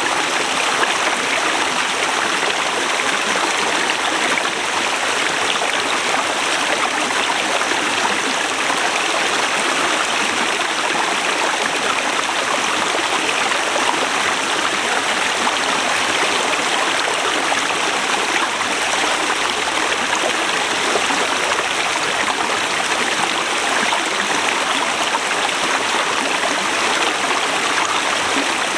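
Forest river rushing over rocks, a steady, even flow of water.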